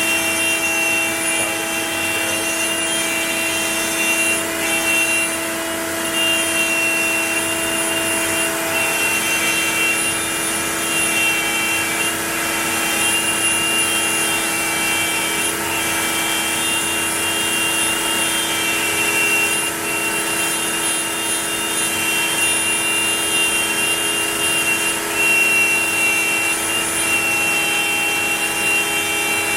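Onefinity CNC router running a carving job: the router spindle keeps up a steady high whine while the bit cuts wood, its tones shifting slightly in pitch and loudness as the machine moves.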